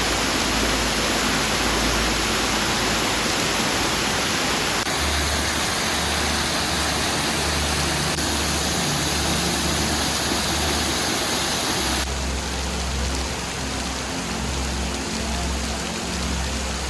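Steady rush of Brandywine Falls, a 60-foot waterfall. The tone of the rushing shifts abruptly twice, about 5 and 12 seconds in.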